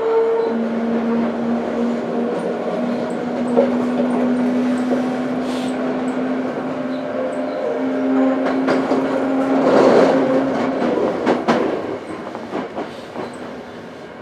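Toei 5300-series electric train running along the track, heard from inside the front car: steady running noise with a held motor tone and occasional clicks of the wheels over the rails. There is a louder rush about ten seconds in, and the sound gets quieter over the last couple of seconds.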